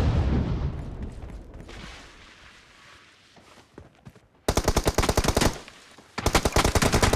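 Automatic gunfire in a shooter video game: a low rumble dies away over the first few seconds, then a rapid burst of about a second comes roughly four and a half seconds in, followed by sustained rapid fire from about six seconds on.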